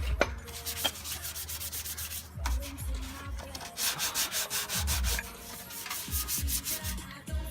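Sandpaper being rubbed by hand over the Civic's engine bay in quick, rhythmic back-and-forth strokes, several a second, to take the surface down for paint. Low thumps falling in pitch sound underneath.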